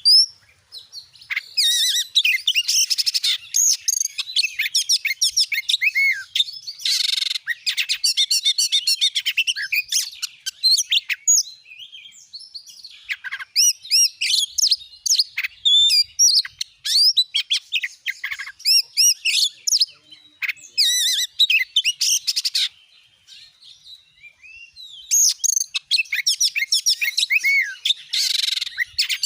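Oriental magpie-robin (kacer) singing a long, varied song of rapid whistles and chirps, the full 'gacor' singing used as a lure recording to set other kacer singing. The song breaks off for a couple of seconds near the end, then resumes.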